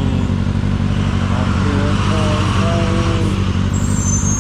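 2009 Kawasaki ZX-6R's inline-four engine running at a steady speed, with no revving. A brief wavering tone is heard about two seconds in.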